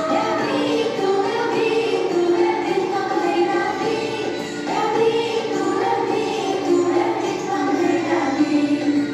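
A children's song playing: voices singing a melody over instrumental backing.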